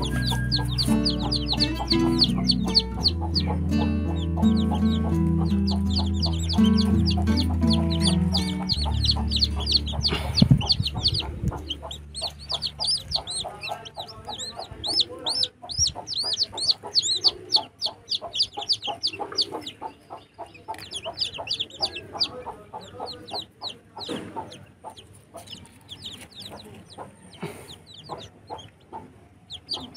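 Newly hatched chicks peeping: rapid, high, falling chirps, several a second, keeping up throughout. Background music runs under them for roughly the first twelve seconds and then fades out.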